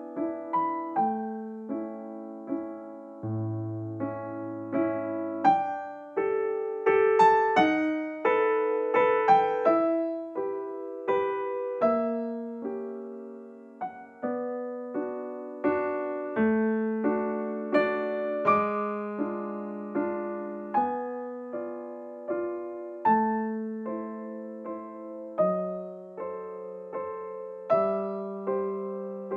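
Background piano music: a gentle melody over slow chords, each note struck and fading.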